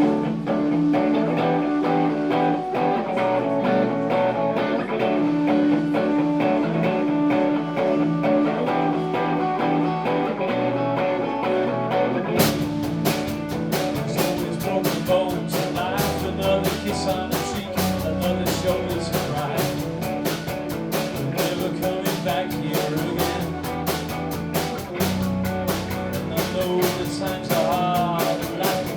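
Live rock band playing the instrumental intro of a song: guitar alone at first, then drums and bass come in about twelve seconds in and the full band plays on with a steady beat.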